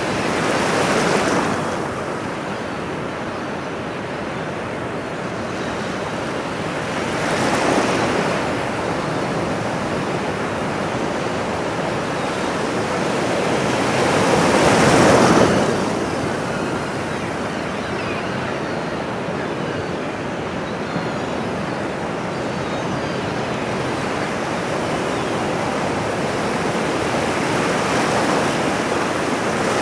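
Ocean surf washing on a shore: a steady rush of water that swells with each incoming wave, four times, the loudest about halfway through.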